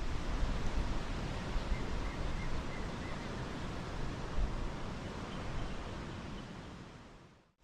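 Strong wind blowing and buffeting the microphone, a steady rush with low rumbling gusts, with a few faint high chirps about two seconds in; it fades out near the end.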